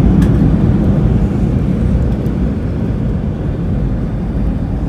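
Loud, steady low rumble inside an Airbus A320 cabin during the landing rollout: the engines in reverse thrust and the runway noise, easing off from about two seconds in as the aircraft slows down.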